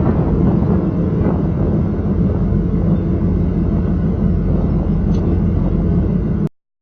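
1995 Chevy Camaro Z28's 5.7-litre LT1 V8 running steadily through a Flowmaster exhaust, a deep, even rumble that cuts off abruptly near the end.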